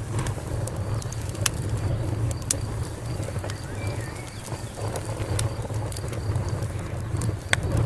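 Wood fire crackling, with irregular sharp pops and snaps over a steady low rumble of flames.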